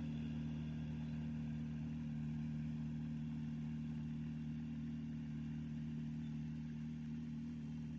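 Diesel engine of heavy construction machinery running steadily at a constant speed.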